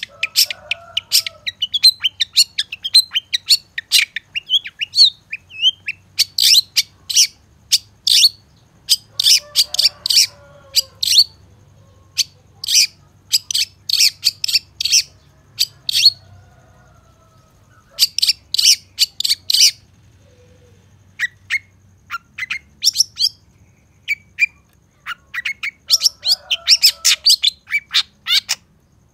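Long-tailed shrike singing: runs of sharp, clipped notes several a second, broken by short pauses, with a few fainter twittering notes underneath.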